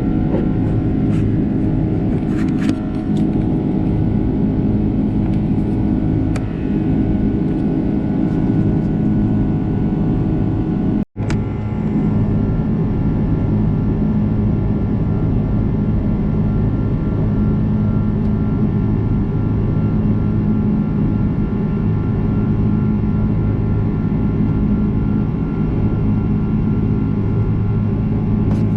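Airbus A330-343 cabin noise heard from a window seat: the steady drone of its Rolls-Royce Trent 700 engines and airflow, with several steady tones in it and a few faint ticks near the start. The sound cuts out for an instant about eleven seconds in, then the same drone resumes.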